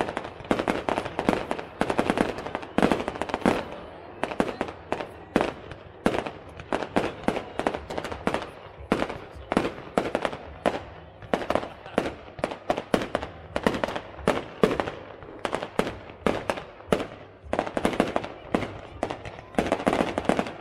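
Aerial fireworks display: a dense, unbroken run of shell bursts, several bangs a second.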